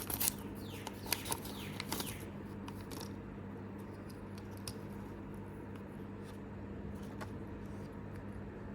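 Soft clicks and crinkling from fingers handling and opening a tiny toy pizza box, mostly in the first two seconds. After that only a few faint ticks remain over a steady low hum.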